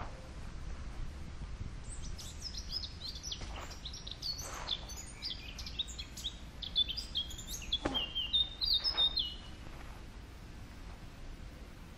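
A songbird singing a fast, varied run of high chirps and short whistled notes from about two seconds in until nearly ten seconds, over a steady low background rumble.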